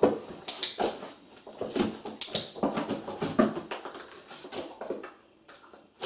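A dog moving in and around a cardboard box: irregular scuffs, thumps and rustling of its paws against the cardboard.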